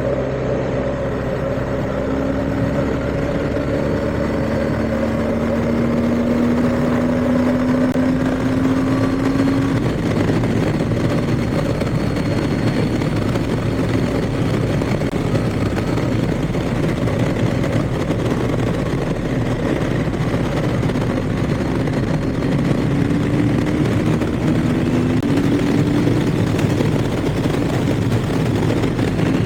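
BMW R1250GS boxer-twin engine running under way, its pitch climbing slowly through the first ten seconds and again past twenty seconds as the bike accelerates, with steady wind rush on the microphone.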